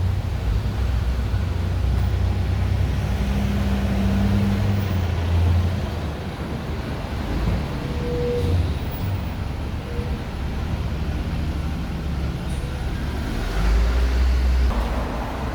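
Road traffic: motor vehicles passing on a street with a steady low engine rumble.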